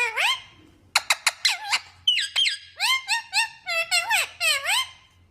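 Pet green parrot calling in a rapid string of short, high, squeaky chirps and whistles that swoop up and down in pitch, with a quick burst of sharp clicky notes about a second in.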